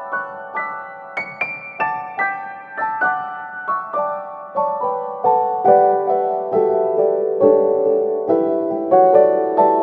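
Background piano music: a melody of single struck notes, about two to three a second, each ringing and fading.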